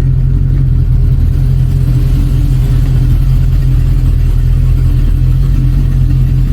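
Chevy Vortec 350 V8 running steadily under way during a test drive, a loud even low rumble. The engine runs smoothly with no misfire now that the intake manifold gasket vacuum leak is fixed.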